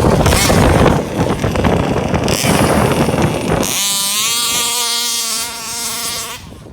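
Gas RC buggy's 34cc Rovan two-stroke engine running hard and raspy, then about three and a half seconds in settling into a steady, even buzz that fades near the end.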